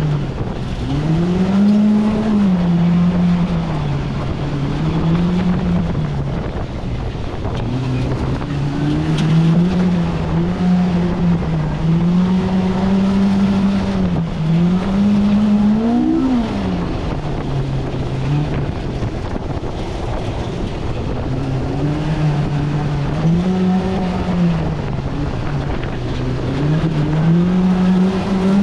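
Polaris RZR Pro R's four-cylinder engine under way on a trail. Its pitch climbs and drops again and again as the throttle comes on and off, with one quick sharp rev about halfway through.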